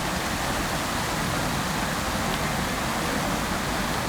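Fountain water splashing steadily: an even, unbroken rush of falling water.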